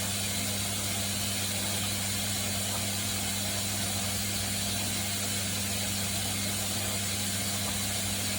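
Haier HW90-BP14636 front-loading washing machine, with its belt-driven inverter motor, running with a steady hum and an even hiss.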